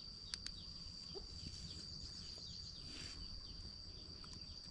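Rural outdoor ambience: a steady high-pitched insect drone with scattered faint bird chirps, and two small clicks about half a second in.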